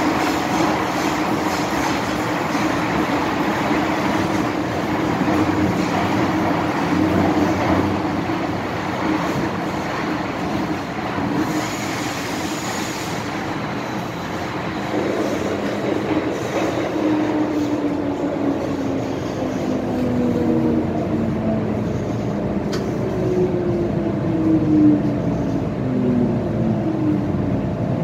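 MTR M-Train metro car running along the track, then slowing: about halfway through, the traction motors' whine starts to fall steadily in pitch as the train decelerates.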